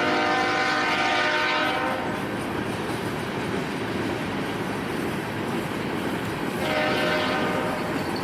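Union Pacific locomotive's multi-chime air horn sounding a long blast that cuts off about two seconds in, then a shorter blast near the end, over the steady rumble of the train rolling on the rails.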